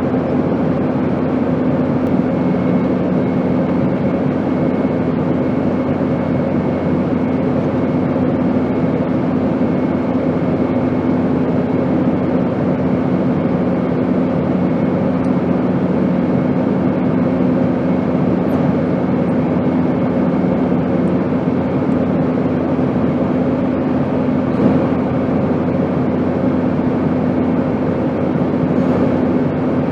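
Airplane engine drone, a steady rush of noise with a constant hum over it. A lower hum fades out about two-thirds of the way through.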